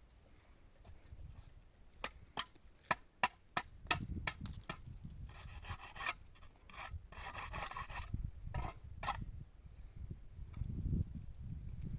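A run of sharp knocks and clicks, with two short rasping scrapes near the middle, over a low rumble.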